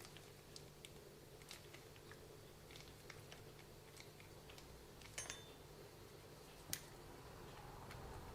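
Faint, scattered small clicks and taps of hand tools and small parts of an RC car being handled, over a low steady hum. A brief cluster of clicks about five seconds in and one sharper click about a second and a half later stand out.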